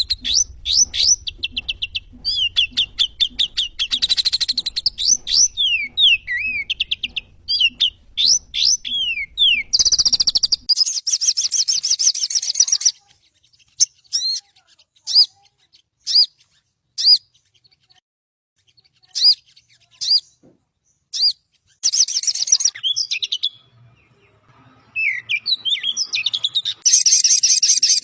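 Sogon bird (little spiderhunter) calling: fast runs of sharp, high chirps and a dense chattering burst, then sparser single chirps with short gaps, and dense chattering again near the end.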